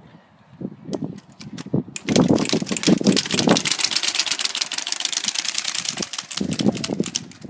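Playing cards held by a clothes peg against a bicycle wheel's spokes, flapping in a rapid, even clatter as the wheel turns. It starts about two seconds in and dies away near the end.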